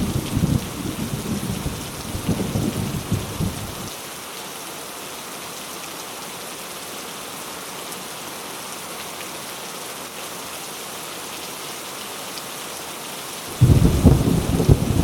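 Heavy rain falling steadily, with a rumble of thunder that dies away about four seconds in. A new rumble of thunder breaks in suddenly near the end.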